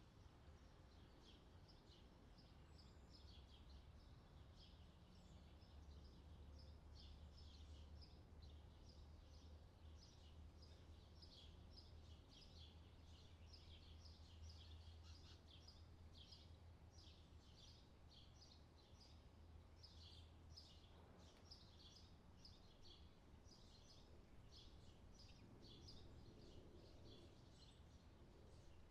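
Faint outdoor summer ambience: small birds chirping over and over, with a low steady hum underneath that fades out about two-thirds of the way through.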